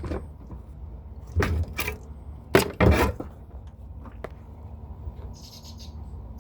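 Sharp knocks and clinks of hand tools and small parts as a small-engine carburetor is opened up on the bench, four of them between about one and three seconds in.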